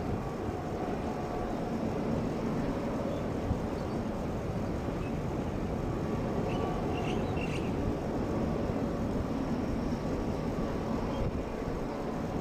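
Jet airliner engines running, a steady rumble with a faint steady whine.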